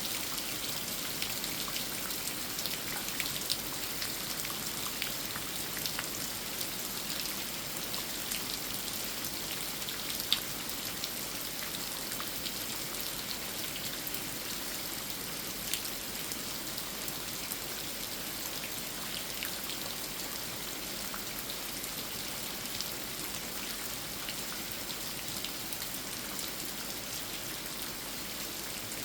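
Steady rain falling on an old tree: an even hiss with many scattered, sharper drop ticks, a few louder than the rest.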